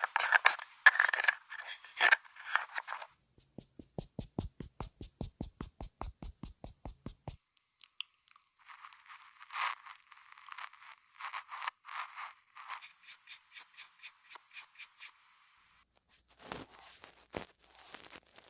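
Close-miked handling of makeup products, played as a string of ASMR sounds. It opens with about three seconds of crinkling, then even tapping at about five taps a second, then a long run of quick scratchy strokes, with a few scattered clicks near the end.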